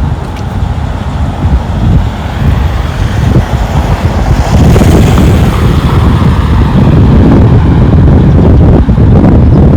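Wind buffeting the microphone in a heavy, uneven low rumble, with a road vehicle passing close by about five seconds in; the rumble grows louder after it.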